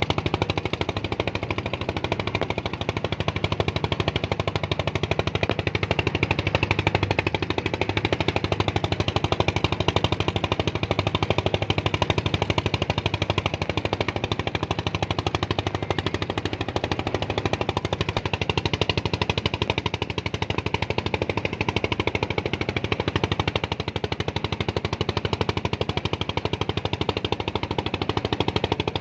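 A motor engine running steadily for the whole stretch, with a rapid, even chugging that holds a constant speed.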